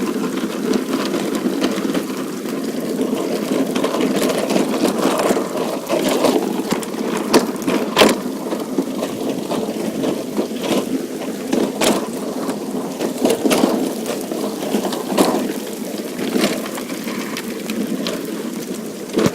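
Heavy rain falling, with many sharp drop hits close by scattered through a steady wash of noise.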